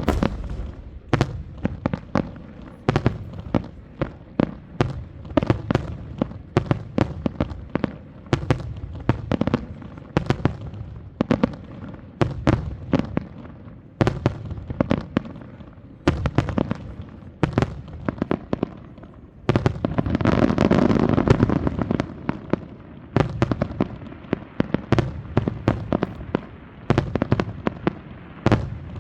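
Fireworks display: a rapid barrage of aerial shell bursts, sharp bangs coming several a second. About two-thirds of the way through comes a louder, continuous rush of bursts lasting two to three seconds, then the separate bangs resume.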